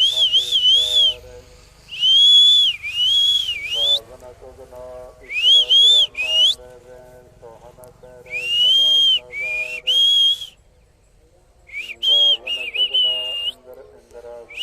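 A high whistled melody in phrases about a second long with bending, wavering pitch, over a steady lower accompaniment of held notes.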